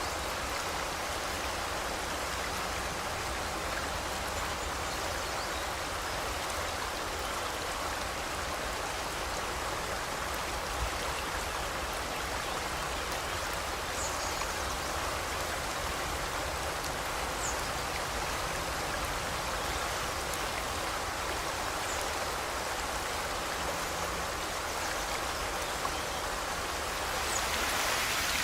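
Forest river flowing steadily: an even rush of water, with a few faint, short high chirps in the middle. About a second before the end the rush grows louder and brighter.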